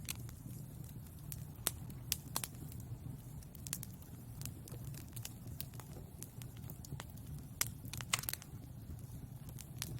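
Wood fire burning in a fireplace: a steady low rumble of flames with irregular crackles and sharp pops, a quick cluster of louder pops about eight seconds in.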